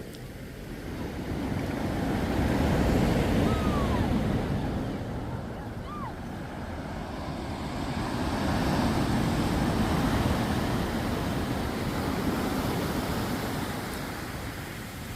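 Waves breaking on a sandy beach: the surf swells up, falls back and swells again, two breakers about six seconds apart.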